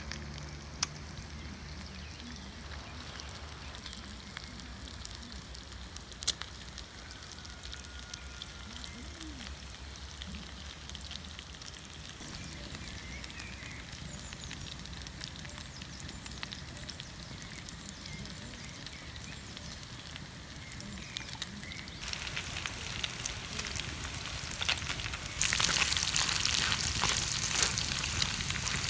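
Steady rain and a crackling wood fire, with a few sharp pops. About three-quarters of the way through, food frying in a pan over the fire starts to sizzle louder, and it grows louder again near the end.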